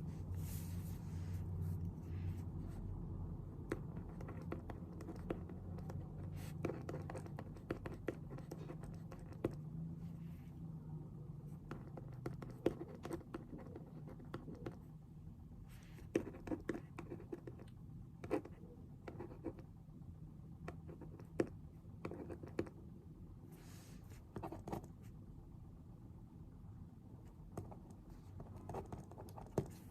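Pen writing on paper at a desk: scattered scratchy strokes and small clicks and taps. A low rumble fades away over the first half.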